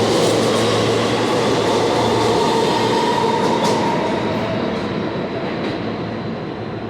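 New York City Subway R160 train running through the station as it pulls out, with steady wheel and motor noise and a faint whine, gradually fading toward the end.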